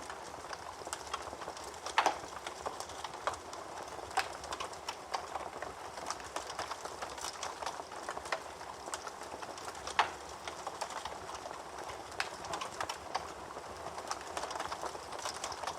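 Wood fire burning in a fireplace: a steady crackle with scattered sharp pops, the loudest about two seconds in and again about ten seconds in.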